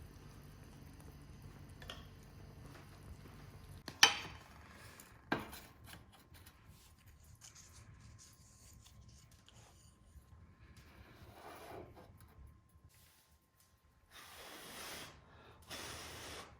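Objects being handled: two sharp knocks about a second apart, the first the loudest, then two short scraping rubs near the end.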